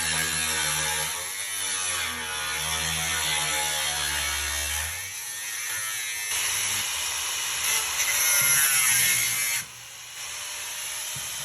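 Electric power tool cutting through the steel wall of a drum, its motor pitch wavering under load over a steady hiss. The sound drops off sharply near the end.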